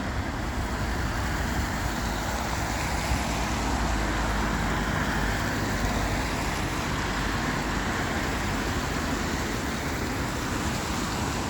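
Road traffic passing on a wet road: a steady hiss of tyres on wet tarmac over a low engine rumble.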